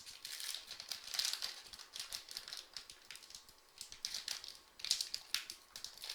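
Irregular crinkling and rustling of packaging handled at close range as a sealed trading-card box is worked open by hand.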